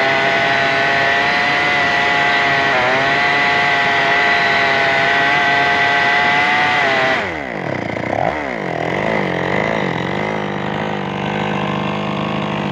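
Chainsaw engine running at high revs, its pitch steady. About seven seconds in the throttle is released: the pitch falls sharply, wavers, and settles into a low idle.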